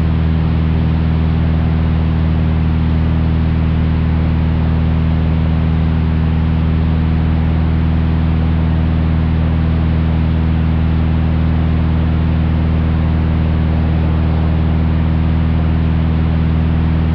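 A 1956 Cessna 172's six-cylinder Continental O-300 engine and propeller running steadily at full takeoff power during the climb-out.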